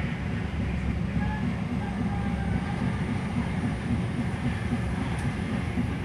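Passenger train carriage running along the track, heard from inside the coach: a steady low rumble of wheels on rails.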